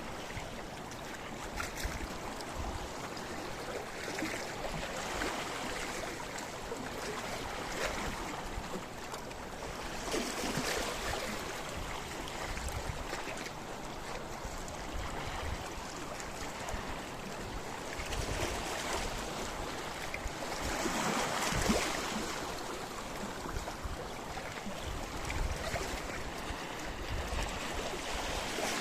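Sea waves washing against a rocky shore, a steady rush of surf that swells as each wave breaks every several seconds, the largest about two-thirds of the way in.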